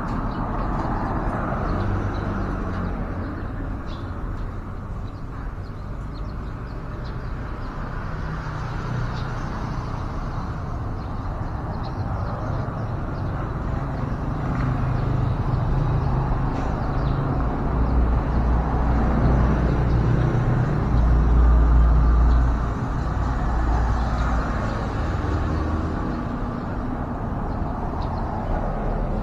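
Road traffic rumbling, with a heavier vehicle passing loudest about twenty seconds in.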